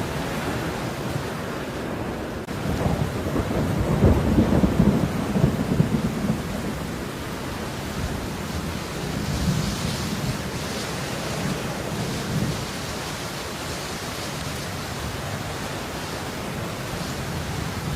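Steady rain with a low rolling rumble of thunder, which swells about three to six seconds in and then eases back under the rain.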